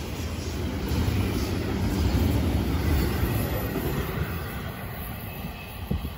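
Double-stack intermodal freight train's well cars rolling past, a low rumble of wheels on rail that peaks about two seconds in and fades as the last cars pull away. A short knock near the end.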